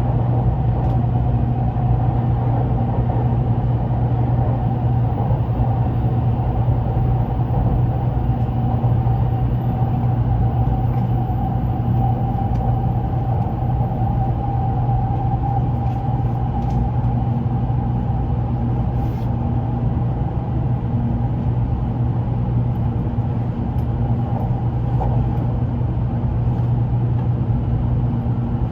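Running noise inside a Shinkansen train car on the move: a steady low rumble with a steady higher hum above it.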